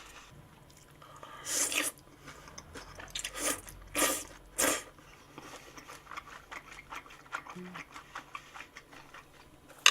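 A person eating udon noodles: four short slurps in the first five seconds, then soft, quick chewing clicks.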